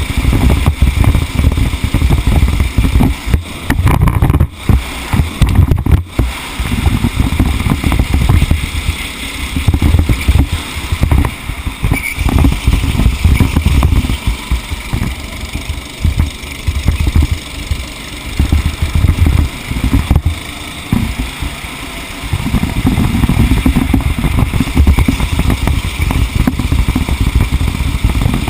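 Motor vehicle driving at speed, heard onboard: a steady engine and heavy, uneven low rumble from the road and wind on the microphone, which eases and steadies for a few seconds past the middle.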